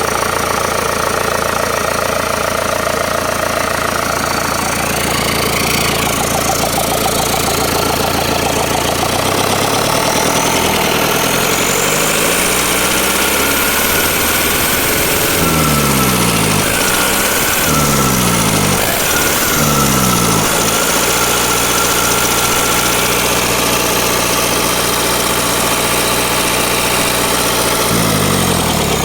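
Changfa CF4C diesel engine running on test after an overhaul: it idles steadily at first, then is revved up, rising and falling in speed three times, holds a steadier higher speed, and changes speed again near the end.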